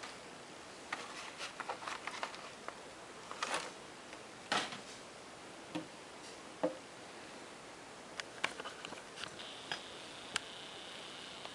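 Scattered light clicks, taps and small rustles of a small diecast model airplane and its plastic packaging being handled. A faint steady high tone comes in about two-thirds of the way through.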